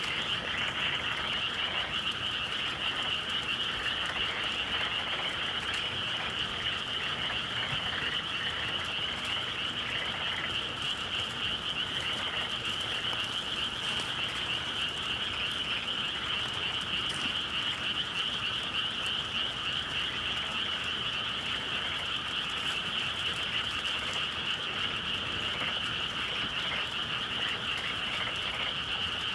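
A chorus of many frogs calling at once in a dense, continuous trilling wall of sound, steady in level.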